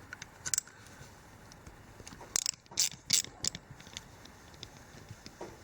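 Hand tools working a 10 mm bolt on an engine: a few sharp metallic clicks, one at about half a second, then a quick cluster of louder clicks about two to three and a half seconds in.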